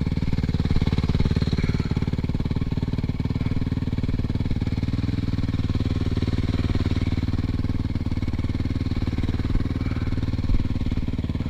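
Suzuki RM-Z450 dirt bike's single-cylinder four-stroke engine running steadily at low revs, with no revving.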